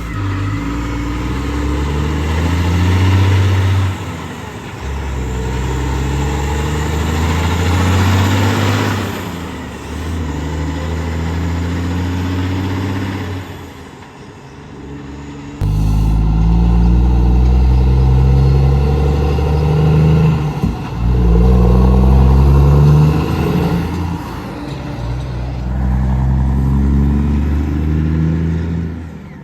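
Heavy diesel trucks accelerating through the gears, the engine pitch climbing and dropping back with each shift several times over.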